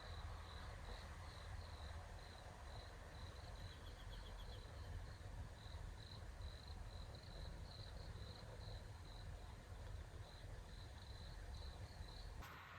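Crickets chirping in a steady series of short pulses, about two to three a second, with a brief faster trill about four seconds in, over a faint low rumble.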